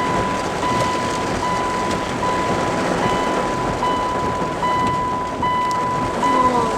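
Heavy rain and tyre noise heard from inside a moving car. Over it, a steady electronic tone sounds, breaking off briefly about every 0.8 seconds, with a fainter higher beep joining about halfway through.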